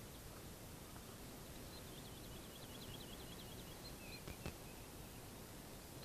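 Faint open-air ambience, with a small bird singing a quick run of high chirps about two seconds in, and a single sharp click later on.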